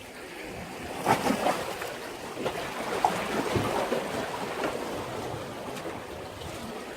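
Sea waves washing against a breakwater. A wave surges in about a second in, with splashing and crackling as the water breaks, then subsides over the next few seconds.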